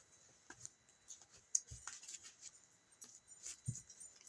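Tarot cards being handled and laid down on a table: faint, scattered rustling and sliding, with a soft knock about a second and a half in and another near the end.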